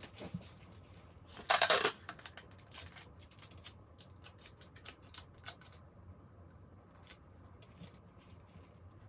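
Adhesive tape pulled and torn from a roll: one short loud rip about a second and a half in, followed by light scattered clicks and taps of the tape and paper being handled and pressed in place.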